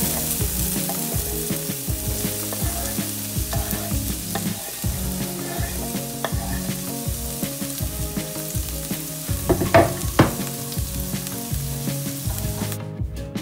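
Diced bell peppers and onions sizzling as they fry in hot oil in a pan, with a utensil scraping them off a wooden cutting board. A few sharp knocks come about ten seconds in, and the sizzle cuts off suddenly near the end.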